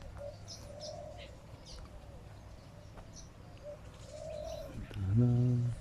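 Doves cooing softly with other small birds chirping over them. About five seconds in comes a brief louder low hum, the loudest sound here.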